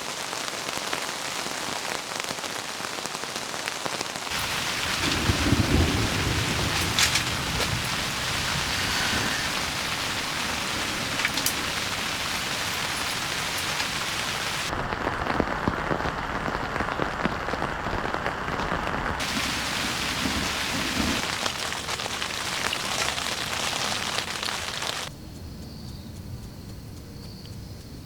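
Heavy rain pouring steadily, with low rolls of thunder about five seconds in and again past the twenty-second mark. The rain grows quieter near the end.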